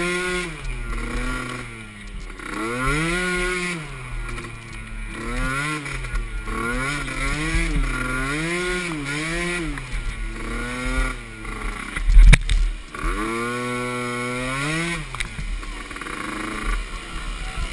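Small youth ATV engine revving up and falling back again and again as it is ridden, its pitch rising and dropping every second or so. A sharp thump stands out about twelve seconds in.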